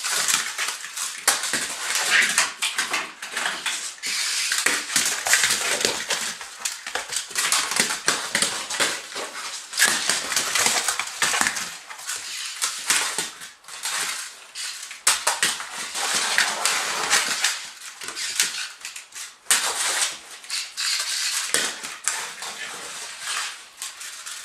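A smooth fox terrier chewing and worrying a broken toy spider: continuous crinkling and crunching with many sharp clicks and rattles, in short bursts with brief lulls.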